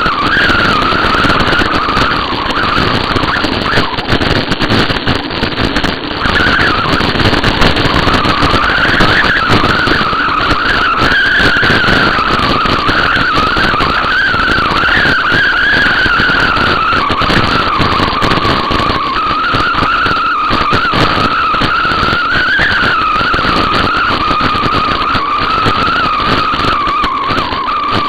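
Riding noise from a moving bicycle: a steady rush of wind and tyre noise on the camera's microphone, with a high whistle that slowly wavers in pitch.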